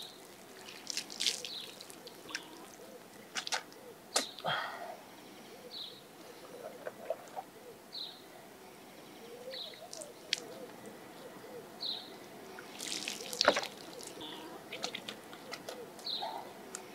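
A small bird chirping, one short high chirp every couple of seconds, among scattered sharp clicks and light knocks.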